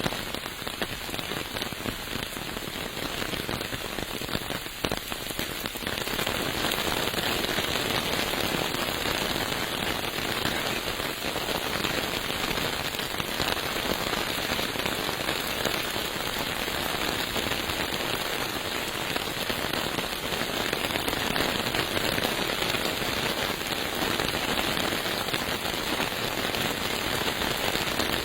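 Steady rain pattering, with a fine crackle of drops; it gets louder about six seconds in and then holds steady.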